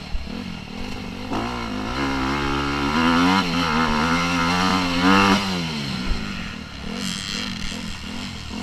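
Motocross bike engine revving: its pitch wavers up and down with the throttle, then climbs about a second in and holds high for around four seconds before dropping back, and the quick rise-and-fall revving resumes.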